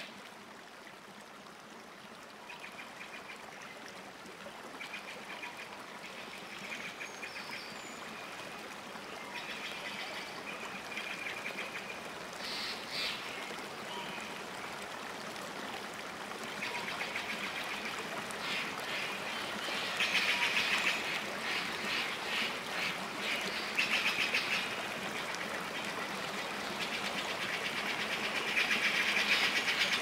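Birds calling: repeated buzzy, rapidly pulsed calls over a steady hiss, sparse at first and growing louder and denser in the second half.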